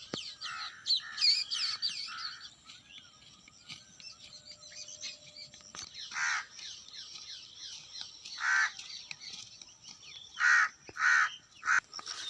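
Crows cawing, about five separate harsh caws in the second half. Smaller birds chirp and twitter rapidly in the first couple of seconds.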